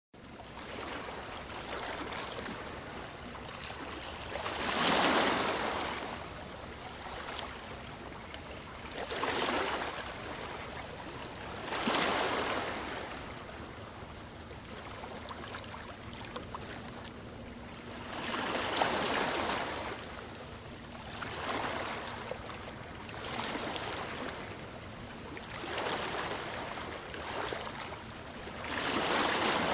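Ocean waves washing in, with about eight swells that rise and fade every few seconds over a steady wash of water.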